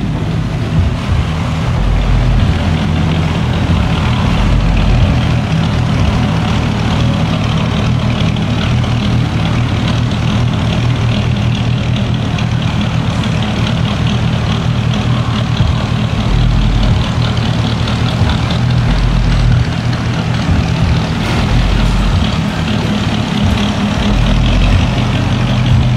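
1963 Chevrolet Impala's V8 engine running steadily, a deep, even exhaust note through the dual exhaust.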